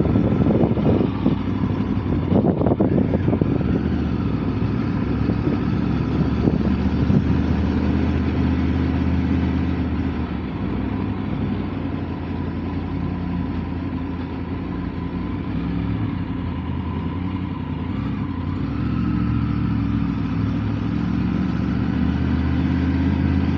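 Motorcycle engine running under way, with steady road and wind noise; it eases off a little about halfway through and picks up again after.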